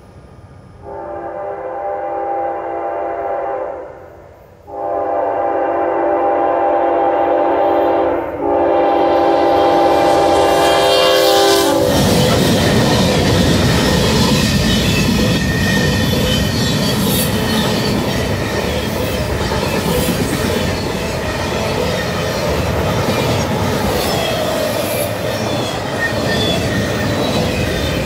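A pair of GE ES40DC diesel locomotives approaching with their multi-chime air horn sounding in long blasts, with a break about four seconds in and a short dip near eight seconds. About twelve seconds in the horn stops as the locomotives pass, giving way to a steady rumble and clatter of steel wheels on the rails as the freight and intermodal container cars roll by.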